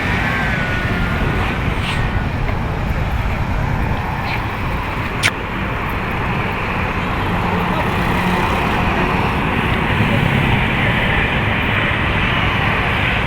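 Steady street traffic noise of passing vehicles, with a single sharp click about five seconds in.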